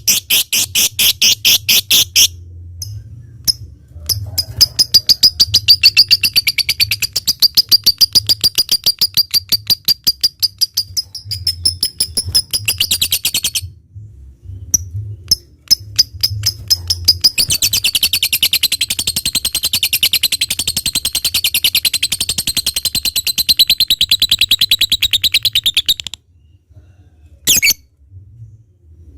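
Lovebird chattering in full song: long runs of rapid, high, evenly repeated notes, the drawn-out trill that keepers call 'ngekek panjang'. Two runs last several seconds each, split by a short pause with a few spaced chirps, and the bird stops near the end after one brief burst.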